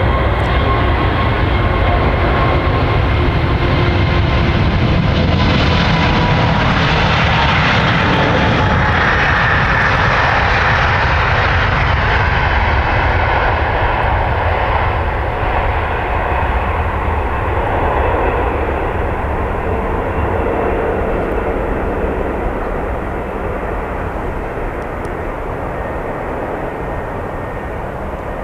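A Lufthansa Airbus A380 departing, its four Rolls-Royce Trent 900 engines at takeoff thrust. A loud jet rumble swells as the aircraft passes, with a tone that drops in pitch, then slowly fades.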